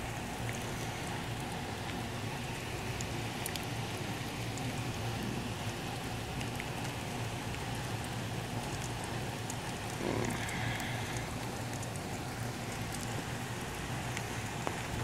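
Heavy rain pouring down steadily in a thunderstorm downpour, with scattered sharp ticks of drops.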